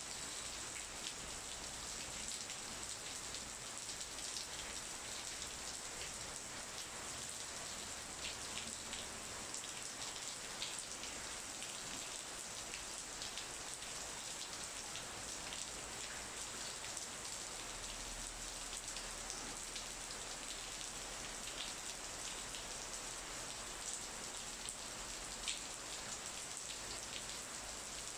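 Steady rain from a thunderstorm shower pattering on leaves and branches, with water running off the eaves and dripping onto the ground below: an even hiss sprinkled with sharp drop ticks.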